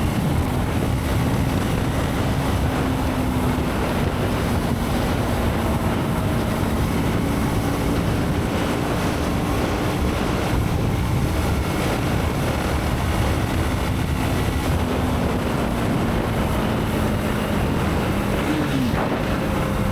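Motorcycle on the move: steady wind rush over the microphone with the engine's hum underneath, its pitch easing slowly lower.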